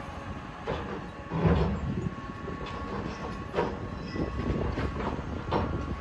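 Building demolition with heavy machinery: a steady machine drone with a faint whine under it, broken by irregular crunching and clanking knocks of falling rubble and metal. The loudest crunch comes about a second and a half in.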